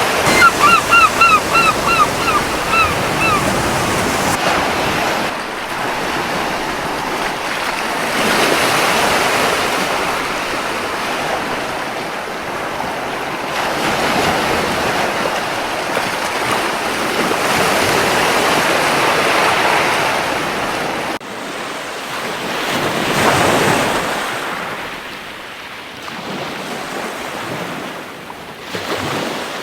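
Surf washing on a beach, swelling and easing several times. In the first few seconds a gull gives a quick run of about ten short calls, each falling in pitch.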